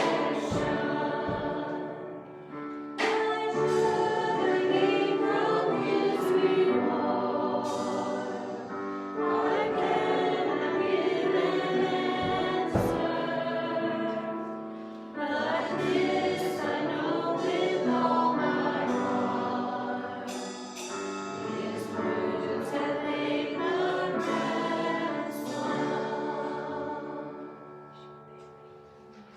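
Group of voices singing a worship song with musical accompaniment, in long held phrases; the song fades out in the last few seconds.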